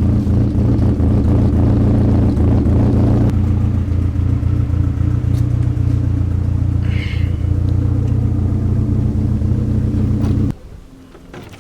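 Mazda Miata's four-cylinder engine idling steadily through a freshly welded dual exhaust, with a lumpy, hesitant idle that sounds cammed. It is switched off about ten and a half seconds in and cuts out suddenly.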